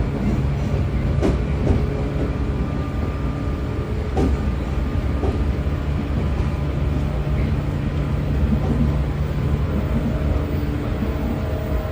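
Inside a JR 113 series electric train's motor car running at speed: the MT54 DC traction motors and gearing hum steadily over the rumble of the DT21B bogies on the track. A few sharp clicks come from the wheels on the rails, the clearest within the first five seconds.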